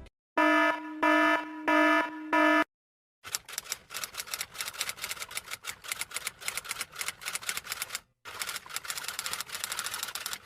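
Four short buzzing electronic beeps, then a brief pause and a long run of rapid typing clicks that breaks off once and carries on.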